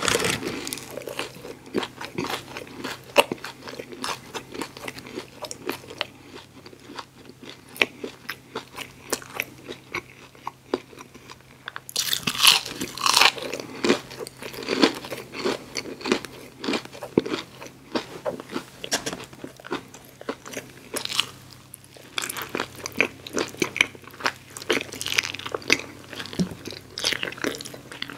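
Close-miked eating: chewing and crunching of fried onion rings, with many wet mouth clicks. There is a loud crunchy stretch about twelve seconds in.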